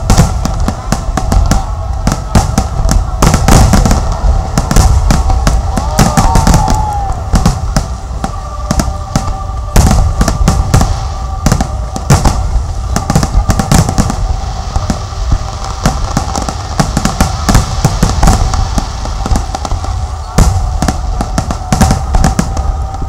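Loud aerial fireworks display: a dense, rapid string of shell bursts and crackling bangs, many coming close together.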